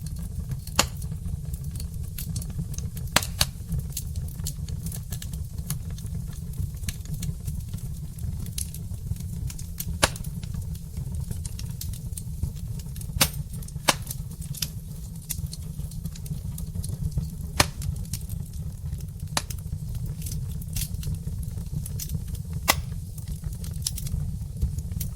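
Wood fire burning in a fireplace: a steady low rumble of flames with sharp, irregular pops and crackles from the burning logs, about one every two to three seconds.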